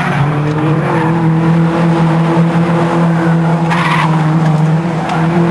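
Caterham race car engine running at steady high revs, its note rising slightly about a second in. A short rasping burst comes near four seconds.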